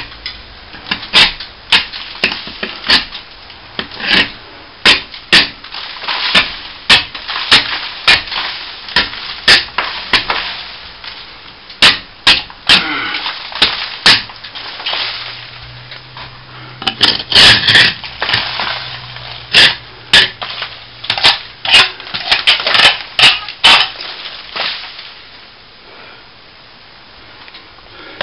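Stanley knife blade scratching through hairline cracks in plaster to open them up for filling: a run of sharp scratching strokes, about one or two a second, with a few longer scrapes.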